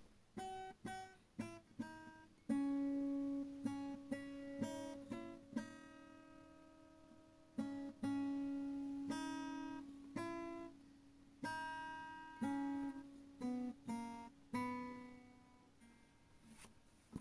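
Background music: an acoustic guitar picking single notes and chords, each ringing out and fading.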